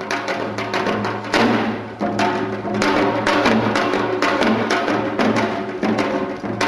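Janggu (Korean hourglass drum) playing a quick, dense run of strokes over steady low sustained tones in the music.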